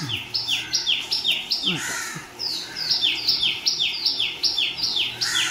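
A bird calling repeatedly: a fast, even run of short, falling chirps. They alternate between a higher and a lower note, about three pairs a second.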